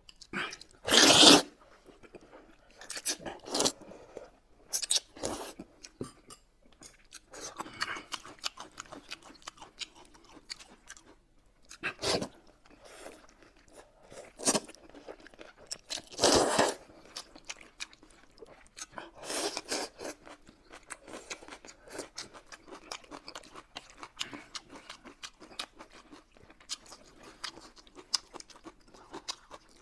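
Wide flat mianpi noodles being slurped and chewed close to the microphone: a loud slurp every few seconds over steady quick chewing clicks.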